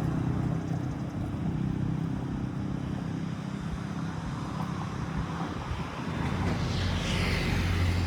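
A motor vehicle's engine running steadily close by, over street noise. A brief high-pitched whine sweeps up and down near the end.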